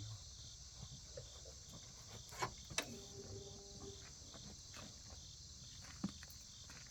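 Faint, steady insect chorus of crickets trilling in a high, evenly pulsing band, with two sharp clicks about two and a half seconds in and a small knock near the end; no engine is heard.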